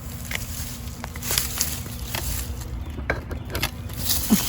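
A dried, shriveled pumpkin vine being cut off the fruit: a string of short crackling snaps and scrapes, the loudest just before the end.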